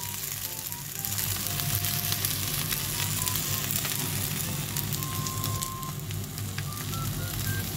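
Wiener sausages and a fried egg sizzling steadily in a frying pan, with a few small crackles.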